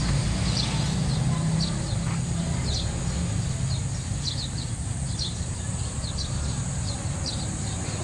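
A bird giving short, high chirps, about one or two a second, over a steady low rumble.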